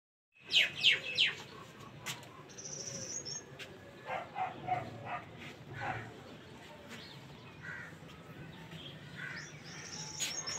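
Birds calling: three loud calls in quick succession about half a second in, then quieter scattered calls and a few high chirps.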